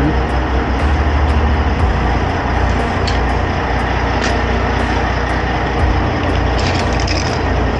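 Steady low vehicle rumble, with a few short clinks about three and four seconds in and a brief rattle of clicks near the end.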